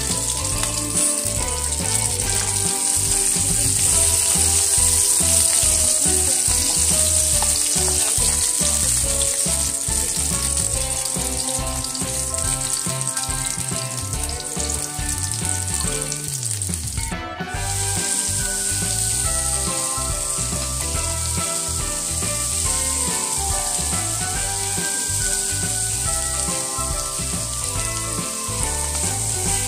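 Potatoes, onion and garlic sizzling steadily as they sauté in oil in a frying pan. The sizzle drops out briefly about halfway through.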